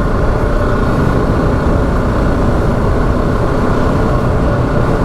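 Motorcycle being ridden, its engine running steadily under way.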